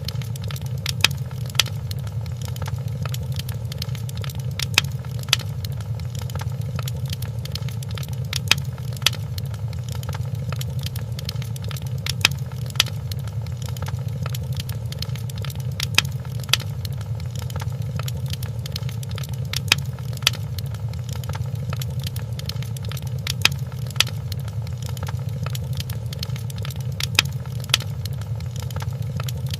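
Wood fire crackling in a fireplace: a steady low rumble of the burning, with small crackles throughout and sharp pops, often two close together, every few seconds.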